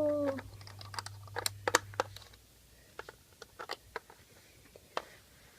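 Scattered light clicks and taps at an irregular rhythm, a few each second.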